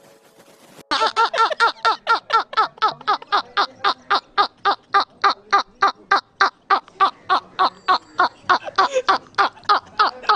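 Hearty, uncontrollable laughter starting about a second in: a long unbroken run of rapid 'ha' syllables, about five a second, each falling in pitch.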